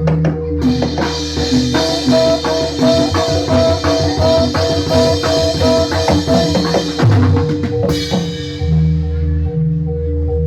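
Amplified Javanese gamelan music for a Jathilan dance: drums and struck metal keys. A busy rhythmic passage with a bright shimmer on top starts about half a second in and ends around eight seconds, then it falls back to sustained ringing tones.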